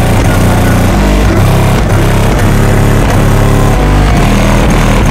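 Bass-heavy music played very loud through a car audio system's wall of Fi BTL N2 15-inch subwoofers, with deep bass notes held for about half a second to a second before changing pitch.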